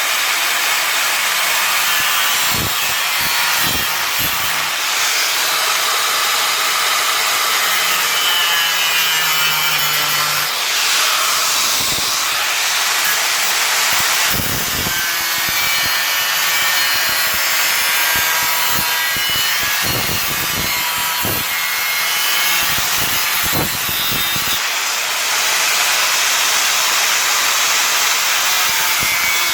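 Angle grinder cutting through car-body sheet steel: a loud, continuous harsh grinding whine whose pitch shifts as the disc bites into the metal.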